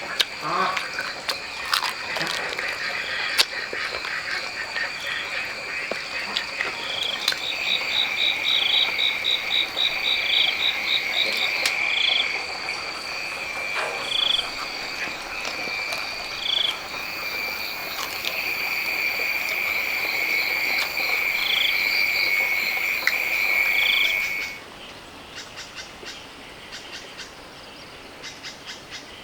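Frogs and insects calling in a night chorus: a steady high drone, a trilling call, and single calls repeating about every two seconds. It cuts off suddenly near the end, leaving a fainter chorus.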